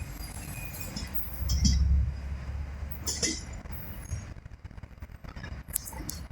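Low rumble of a container freight train passing on the track, with a few scattered metallic clinks; the rumble swells briefly and then dies away after about four seconds.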